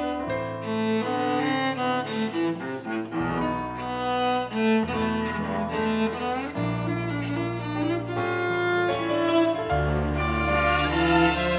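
Violin orchestra of violins, cellos and basses playing an instrumental interlude without singing: a sustained melody over a bass line that moves to a new note about every second and a half.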